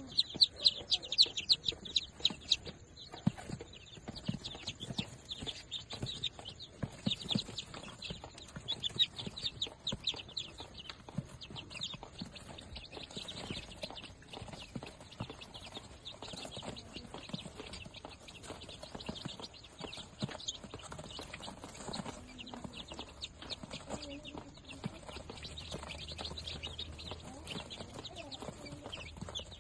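Day-old Darag native chicken chicks peeping: many short, high, rapid peeps overlapping in a continuous chorus, loudest in the first few seconds.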